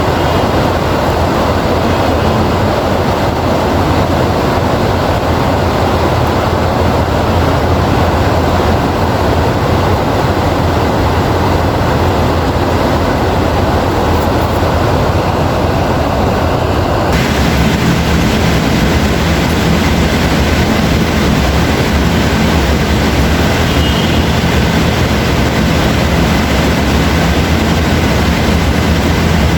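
Heavy, steady rain with a deep low rumble under it. About two-thirds of the way through the sound changes suddenly, brighter and hissier, as if a different rain recording takes over.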